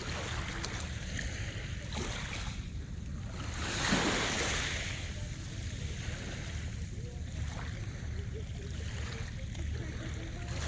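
Sea waves washing onto the shore in swells, with one larger wave breaking loudly about four seconds in, over a steady low rumble.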